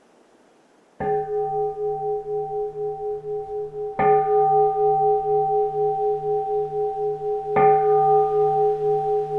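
A keisu, a Zen temple bowl bell, struck three times about three seconds apart; each stroke rings on with a slowly pulsing hum that carries over into the next.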